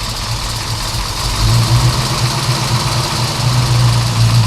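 Heavy engine of a road roller running steadily with a low hum, growing somewhat louder about a second and a half in.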